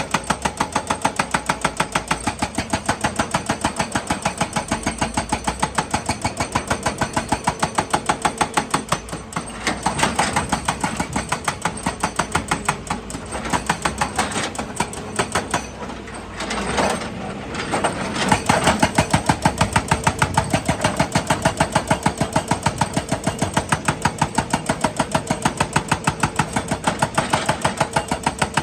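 Excavator's diesel engine running with a rapid, even beat. The beat breaks up for several seconds around the middle as the machine works, then steadies again.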